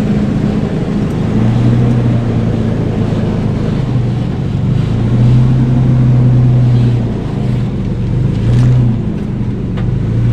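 Off-road 4x4 engine working at low revs while rock crawling, the revs swelling and easing several times as the vehicle is eased over the rocks.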